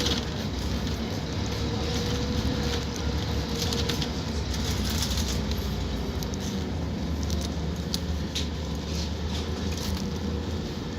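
Scania K230UB Omnilink bus's five-cylinder diesel engine running steadily with a low hum, over scattered light rattles and clicks.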